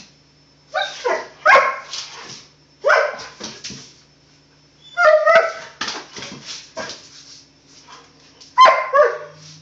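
Dog barking repeatedly in short bursts, a few barks at a time with pauses between: playful barking aimed at the cat.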